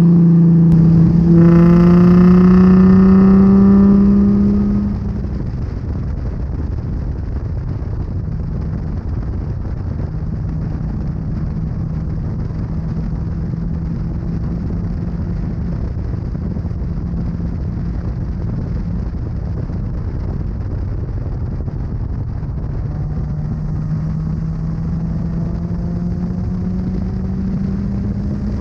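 Bolt-on-modified Nissan 350Z's 3.5-litre V6 under way, loud for the first few seconds with the revs climbing, then quieter, a steady engine drone under tyre and road noise while cruising. Near the end the engine note rises slowly again as the car accelerates.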